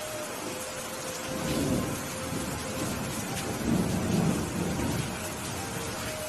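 Steady rain with thunder rumbling low twice, once about a second and a half in and again, louder, around four seconds.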